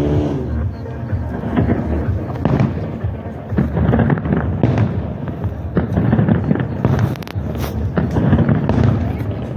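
Fireworks going off in a dense, irregular string of bangs and crackles, several every second.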